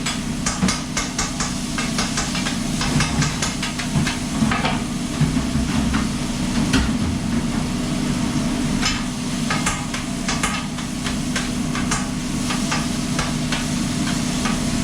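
Food-truck kitchen at work: a steady low machine hum under frequent sharp clicks and clatters of utensils, with frying sizzle.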